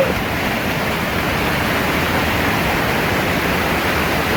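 Steady rushing of white water from a waterfall and its rain-swollen rocky stream, an even, unbroken noise.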